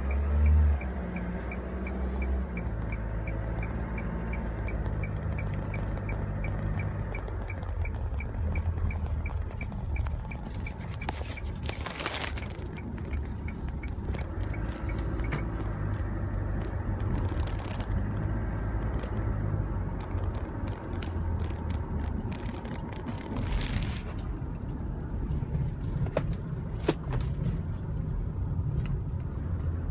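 Small truck's engine running steadily while driving, with a fast regular ticking for about the first half and two brief whooshes partway through.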